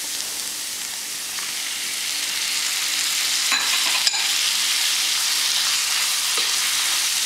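Onion and spice masala frying in oil in a nonstick pan, a steady sizzle that grows louder about two seconds in as chopped tomatoes go into the hot oil. A couple of light knocks come a little past the middle, then the mixture is stirred with a spatula.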